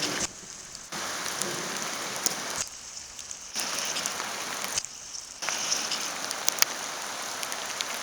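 Rain pattering steadily on a surface, with many separate drop ticks; the sound drops away abruptly three times for under a second each.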